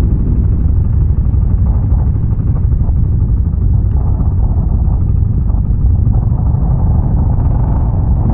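ATV engine running steadily while riding, a loud continuous low rumble with no breaks.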